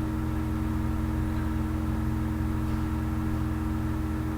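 Steady low machine hum holding several constant tones, unchanging throughout.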